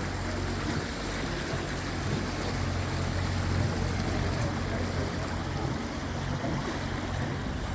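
Speedboat engine running steadily at cruising speed, a low even hum, under the rush of water and wind.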